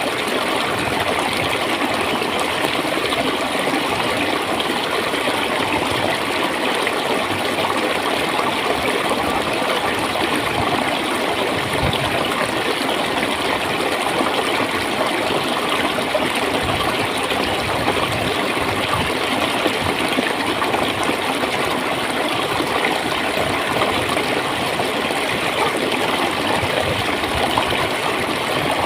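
Clear water flowing and gurgling, a steady, unbroken rush of running water.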